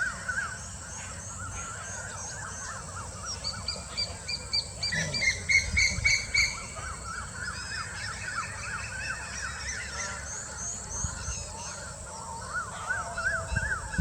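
Many birds calling together in a steady chorus of repeated rising-and-falling notes. A quick run of sharper, evenly spaced calls comes about four to six seconds in.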